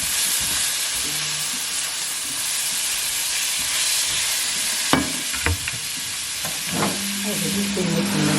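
Food frying in oil in a pan, with a steady sizzle. A few sharp knocks come about five seconds in and again near seven seconds, and a low steady hum starts near the end.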